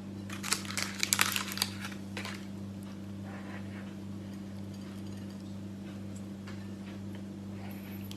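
Crinkling, crackling sounds from a custard tart being handled, lasting about two seconds, then a steady low electrical hum.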